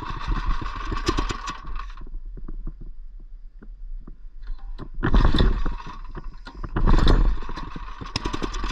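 Mini bike's 212cc single-cylinder engine faltering, revving in loud bursts of about a second with quieter, sputtering spells between. The rider puts the trouble down to the header muffler, saying these motors don't like it and want free flow.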